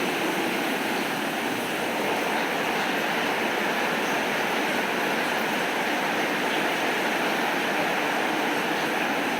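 Steady rain falling, an even hiss with no thunderclap or single drops standing out.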